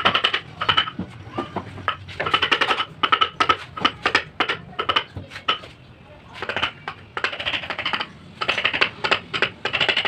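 Clusters of rapid, sharp taps with a slight metallic ring, coming in short runs with brief pauses between them.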